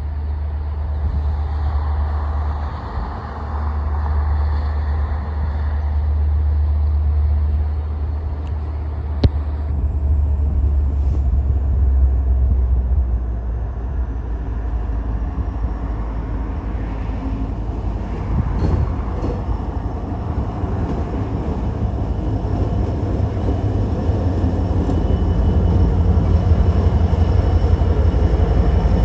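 Norfolk Southern diesel freight locomotives approaching: a steady low rumble that grows louder over the last ten seconds as the train nears. A single sharp click about nine seconds in.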